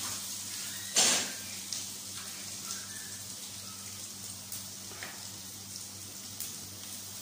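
Diced potatoes and onion sizzling in oil in an iron kadai: a steady frying hiss. There is one sharp knock about a second in and a few light crackles after it.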